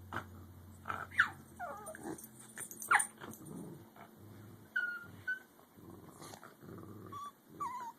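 American Eskimo dogs growling and grumbling over a bone, a low rumble broken by short whiny yelps that slide up and down in pitch, about half a dozen times.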